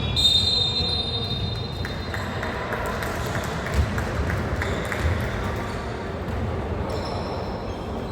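Basketball game in a gym: sneakers squeak sharply on the court at the start and again about seven seconds in, and a ball bounces a few times, over a steady hum of voices in the hall.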